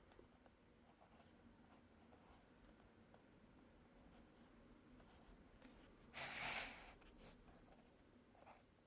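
Near silence: room tone, broken about six seconds in by a brief scratchy rustle and a couple of faint ticks.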